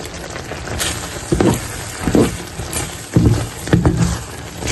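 A utensil stirring and knocking in a pan of mushrooms, chicken and cream as cheese is mixed in, about one stroke a second, over a steady simmer.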